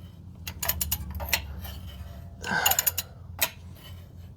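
Irregular metallic clicks and clinks of a wrench as a 5.2L V8 is turned over by hand to spread oil and coolant before the first start. A steady low hum runs underneath.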